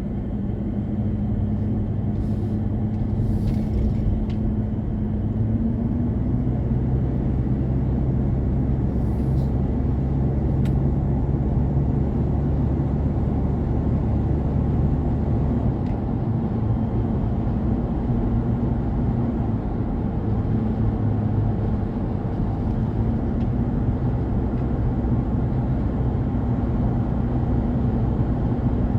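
A car driving at a steady speed: a continuous low road and tyre rumble with a steady engine hum that shifts slightly in pitch now and then.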